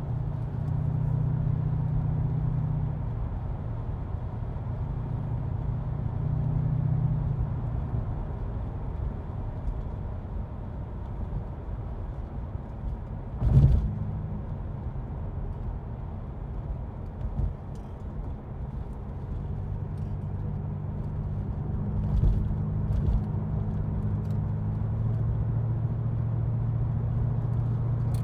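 Porsche 928's V8 engine droning steadily from inside the cabin while cruising, over the hiss of tyres on the road; the drone swells a few times. A single sharp thump about halfway through stands out above it.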